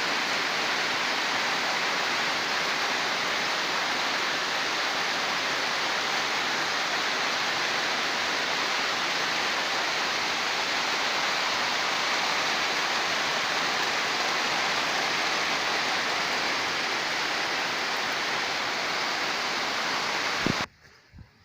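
Steady rushing water, an even unbroken noise, which cuts off abruptly with a click near the end.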